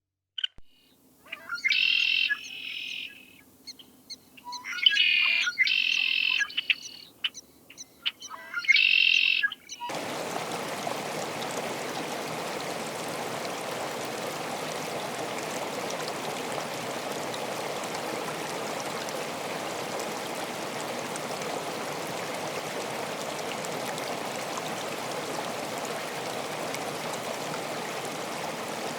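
A bird calling in several short groups of high, repeated notes over the first ten seconds. Then the sound switches abruptly to the steady rush of flowing water.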